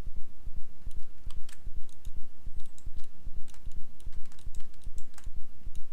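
Computer keyboard and mouse clicks, scattered and irregular, over a steady low pulsing of about three beats a second.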